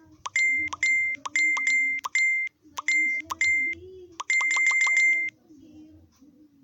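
Electronic beeping: short high beeps, each opening with a click, come in quick pairs about eight times. Then one beep is held for about a second and cuts off sharply.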